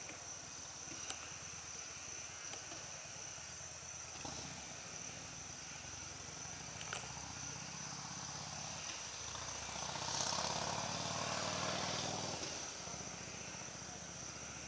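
Insects trilling steadily on one high, constant note. About ten seconds in, an engine passing at a distance swells and fades over about three seconds.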